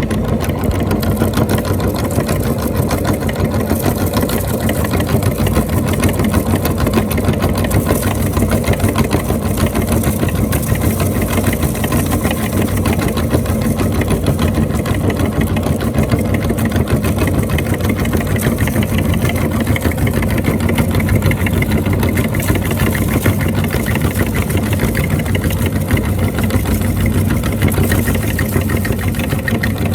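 Electric meat grinder running steadily with a constant motor hum and a dense crackle throughout, as snacks are ground.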